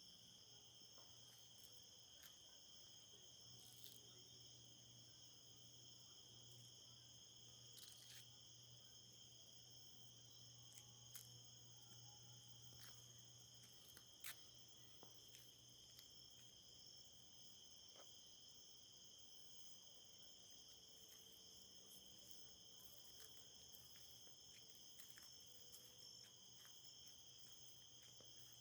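Faint, steady chorus of crickets trilling continuously, with a few light clicks.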